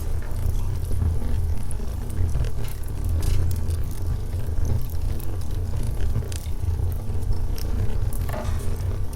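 Wood logs burning in a fireplace: a steady low rumble of flames with scattered sharp crackles and pops.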